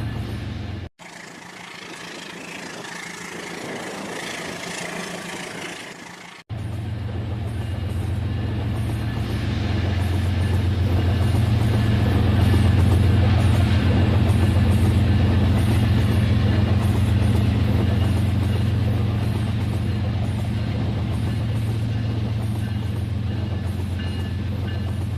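A toy train's electric motor running with a steady low hum. It is broken by an abrupt cut to a quieter, hissy stretch between about one and six and a half seconds in, after which the hum returns and grows louder.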